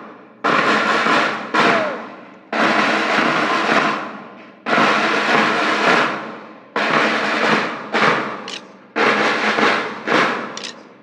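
School band percussion: drums struck in a repeated pattern, each loud hit followed by a ringing wash that fades over a second or two, with quicker double strokes near the end.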